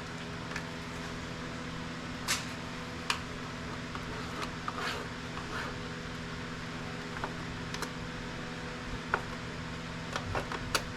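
Scattered light clicks and taps as a small electronic device is handled and pried apart, over a steady low hum.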